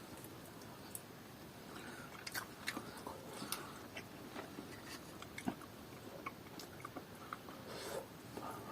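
A dog gnawing a bone: faint, irregular crunches and clicks.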